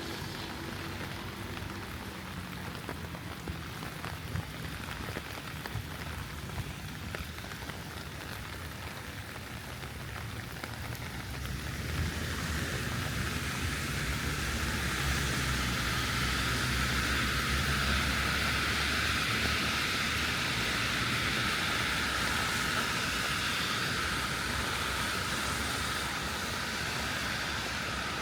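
Heavy rain falling steadily, growing louder about twelve seconds in, with a low steady hum underneath through the middle stretch.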